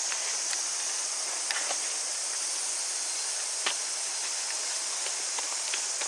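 Steady, high-pitched cicada chorus from the summer forest, with a few sharp clicks from footsteps on the path, clearest about one and a half seconds in and again past halfway.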